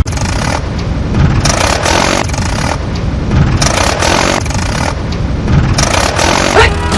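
A vehicle engine running with rough, steady noise, as from a truck driving through mud.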